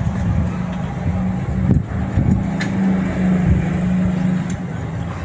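A steady low engine-like hum, as of a motor vehicle running, with a couple of faint clicks.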